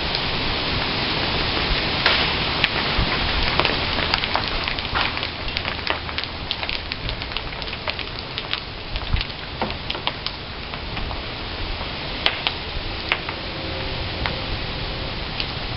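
Acorns falling from oak trees, landing as a scatter of sharp clicks and knocks at irregular moments, a few of them louder hits, over a steady rushing hiss like rain.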